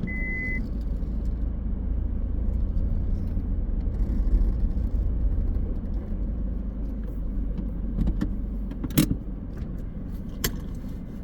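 A car driving, with a steady low rumble of engine and road noise. There is a short high beep at the very start and two sharp clicks near the end.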